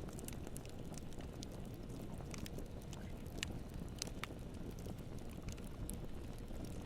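Campfire burning: wood crackling and popping in scattered sharp snaps over a low steady rumble, with two louder pops about three and a half and four seconds in.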